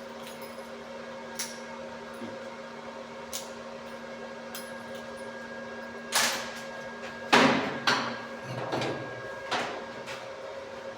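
A steady low electrical hum, then from about halfway through a series of sharp metallic knocks and clatters, about five in a few seconds, as metal parts are handled and knocked on a workbench.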